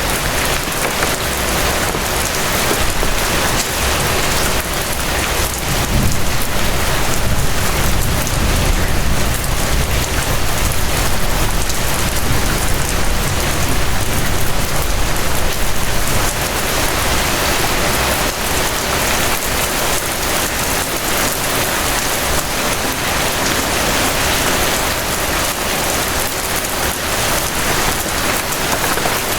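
Steady rain falling, an even hiss of drops. A low rumble swells underneath about six seconds in and eases off some ten seconds later.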